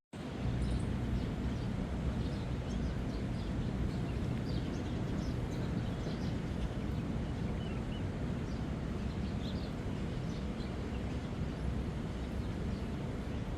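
Outdoor park ambience: a steady low rumble with faint, scattered bird chirps. A brief dropout to silence right at the start.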